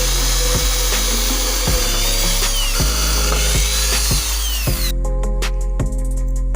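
An electric power tool running over background music with a steady beat; the tool stops about five seconds in.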